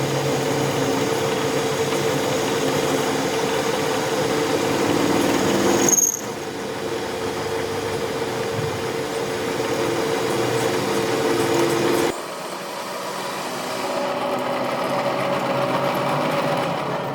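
A power tool's motor running steadily with a whirring hum, the sound changing abruptly about six and twelve seconds in.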